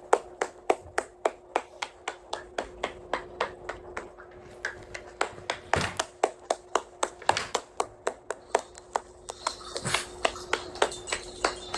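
Rapid, regular sharp clicks or taps, about four a second, over a faint steady hum.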